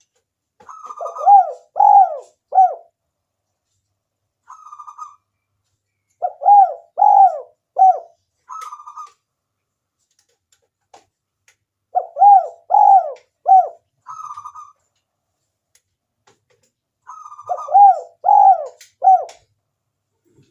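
Spotted dove (tekukur) cooing: four repeated phrases a few seconds apart, each a short rolling note and three arched coos.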